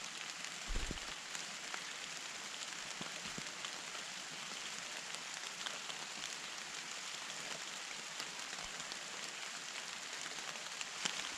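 A steady outdoor hiss with scattered faint ticks, and a dull thump about a second in.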